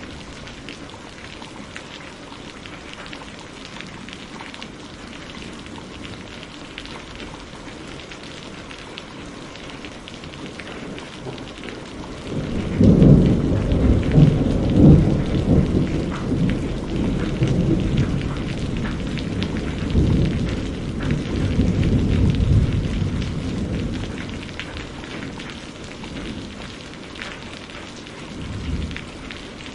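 Steady rain falling, with a long roll of thunder that starts suddenly about twelve seconds in, crackles and rumbles for about ten seconds and fades out, and a brief low rumble near the end.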